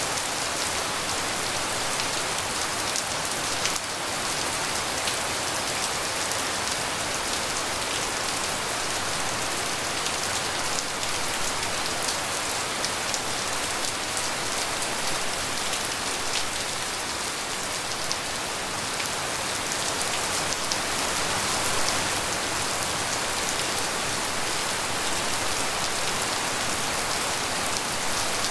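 Steady tropical rain falling, an even hiss speckled with the ticks of individual drops striking surfaces.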